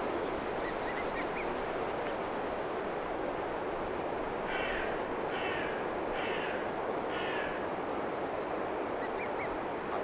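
A bird gives four harsh calls about a second apart, starting around the middle, over a steady background rush.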